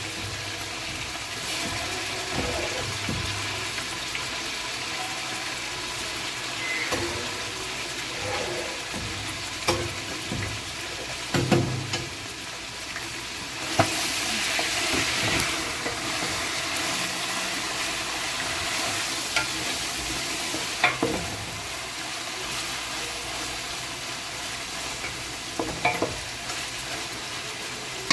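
Food sizzling in a hot cooking pot while it is stirred, with occasional sharp knocks of the utensil against the pot. The sizzle swells for a couple of seconds around the middle.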